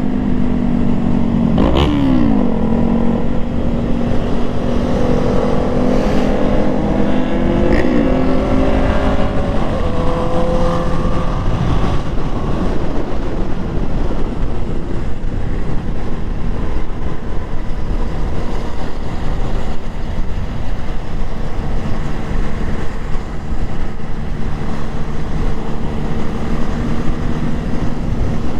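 Motorcycle engine running while riding, with a steady rush of wind and road noise. The engine pitch shifts up and down about two seconds in and again about eight seconds in, then settles into a steady drone.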